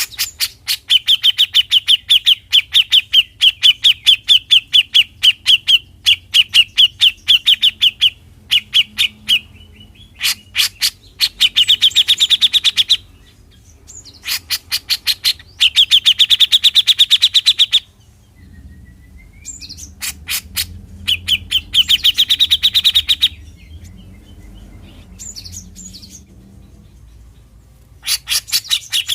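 Grey-cheeked bulbul (cucak jenggot) giving its 'mbeset' call: bouts of fast repeated notes lasting a few seconds each, separated by short pauses.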